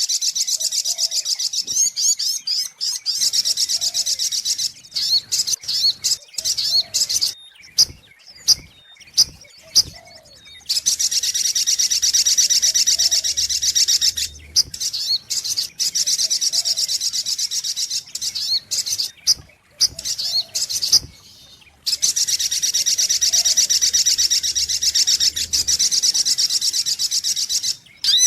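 Sogok ontong bird calling: long runs of rapid, high, shrill chirps, broken in the middle by a stretch of separate sharp notes before the fast chattering resumes.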